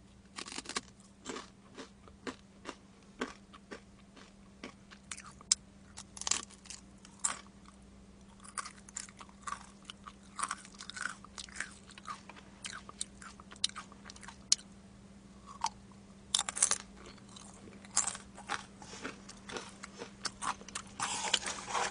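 Close-miked chewing and crunching of boneless fried chicken: many sharp, irregular crunches of bites being chewed, with no pauses longer than a second or two.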